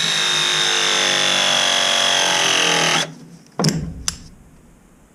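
ProPress pressing tool running through a press on a pipe fitting: a steady motor whine that dips slightly in pitch and stops about three seconds in. Two sharp knocks follow about half a second apart.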